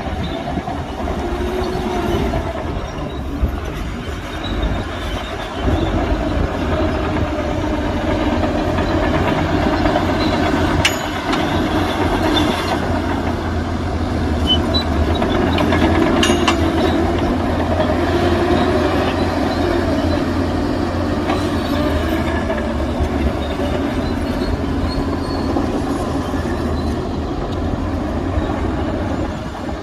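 Heavy diesel earthmoving machinery running steadily under load, engine pitch rising and falling, with a few sharp metallic clicks.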